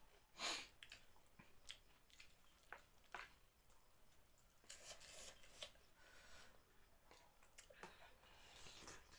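Quiet, close-miked eating of thukpa noodle soup and aloo chop: soft chewing and mouth sounds in scattered short bursts, with one louder sound about half a second in.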